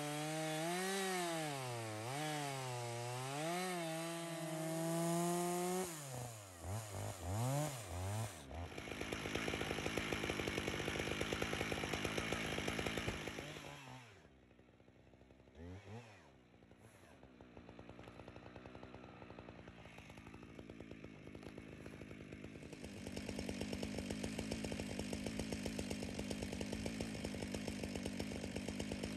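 Gas chainsaw cutting through a fallen tree trunk, the engine pitch rising and falling as the chain bites and is eased off for the first several seconds, then running hard. About halfway through it drops back to a steadier, lower running sound until the end.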